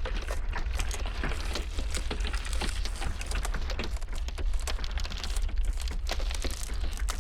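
Ice cracking and crackling in dense, irregular clicks and snaps, over a steady low rumble of blizzard wind.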